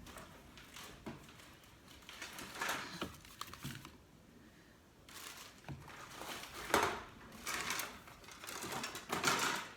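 Irregular rustling and small knocks of hands handling velvet pumpkins and craft materials, in clusters a few seconds apart.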